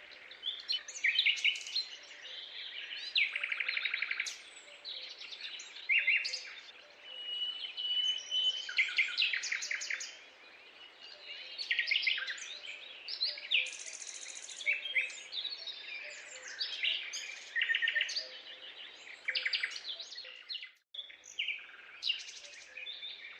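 Many birds calling together: overlapping chirps, trills and whistles, including one held whistle and a high, buzzy call about fourteen seconds in.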